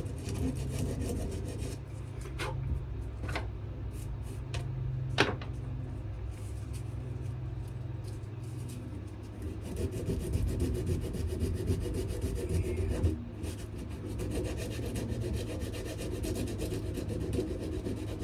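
Continuous rough sanding on a wooden knife handle of wenge and maple, with a few sharp clicks in the first five seconds.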